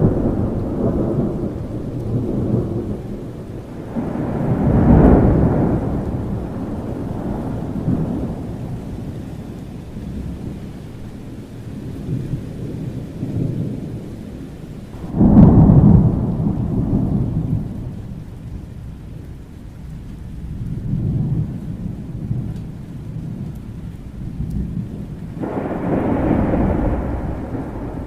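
Thunderstorm: rolling thunder over steady rain. Low rumbles swell and fade about five times, the loudest a sudden crack-and-roll about fifteen seconds in.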